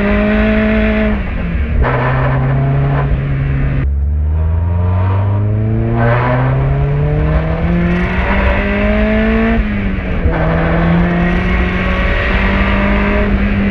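Turbocharged 1.6-litre Mazda MX-5 (NB) four-cylinder engine with a large GT3582 turbo, pulling hard under acceleration. Its pitch climbs steadily through each gear and drops at each gear change, about two, four and ten seconds in.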